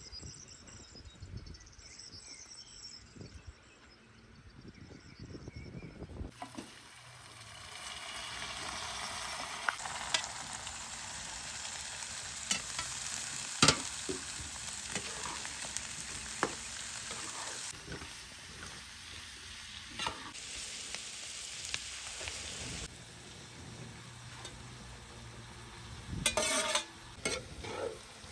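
Food sizzling as it fries in a pan, with a utensil stirring and knocking sharply against the pan now and then. Faint insect chirring is heard in the first few seconds, before the frying starts.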